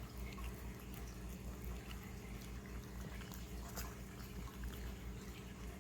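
A puppy licking and smacking at peanut butter: faint, scattered wet clicks over a steady low hum.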